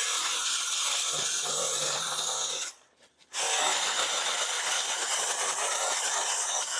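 Stihl battery-powered mini pruning chainsaw running and cutting through brush, a steady hiss-like chain whir. It stops briefly just under three seconds in, then starts again.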